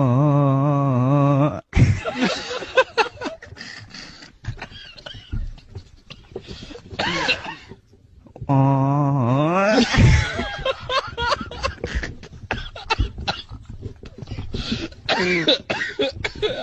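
A man's voice holding a long wavering "ooo" note that cuts off abruptly, then broken coughs and choppy vocal noises, with a second note sliding upward about halfway through. This is a deliberately comic attempt at singing.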